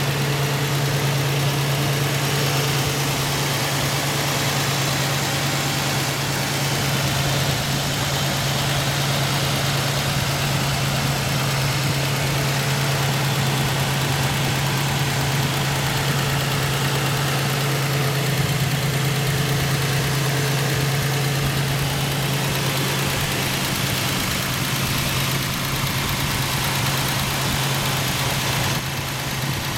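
Rebuilt Chevrolet 4.3-litre V6 in a 1985 Monte Carlo idling steadily.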